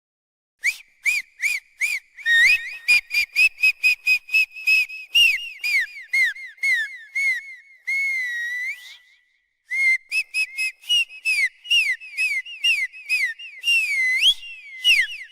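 A rapid series of short, high whistled chirps, several a second, each note bending up or down in pitch, with a short held note about halfway through.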